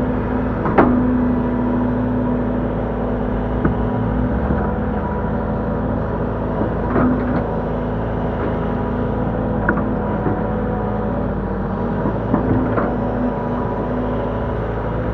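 Link-Belt 145X3E hydraulic excavator's diesel engine running steadily while loading soil into dump trucks, with a few sharp knocks and clanks, the loudest just under a second in.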